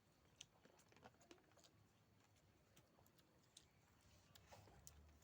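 Near silence with faint scattered small clicks and taps, the sort made by snail shells and eating utensils handled during a meal.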